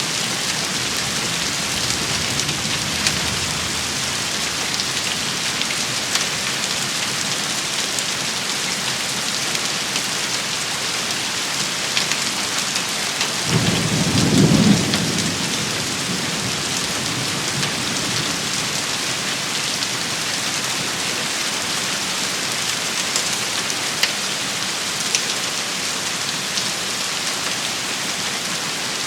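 A rain shower falling steadily, with a dense patter and sharp ticks of drops striking a surface. About halfway through, a brief low rumble swells up for a couple of seconds.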